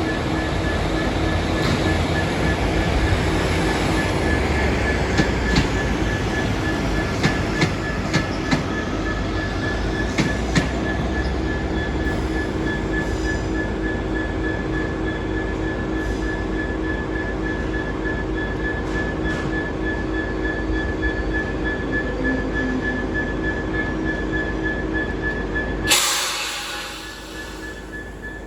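Freight train headed by a Class 66 diesel locomotive, running with a steady rumble and a continuous high-pitched whine. Wagons clank and knock several times in the first ten seconds. A sudden loud rush of noise comes near the end, and then the sound drops away.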